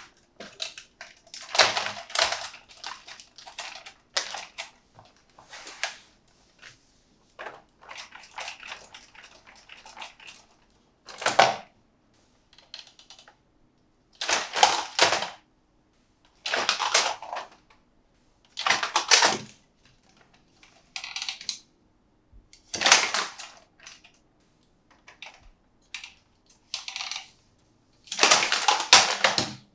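Toy packaging being handled and opened by hand: plastic and cardboard crinkling and rustling in irregular short bursts with brief pauses between.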